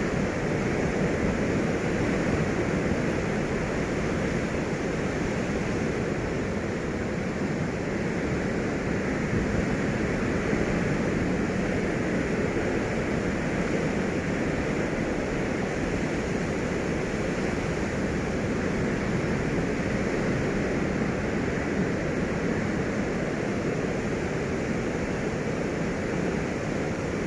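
Steady rushing noise of a passenger train on the move, hauled by a D19E diesel-electric locomotive, with no distinct horn or wheel clatter standing out.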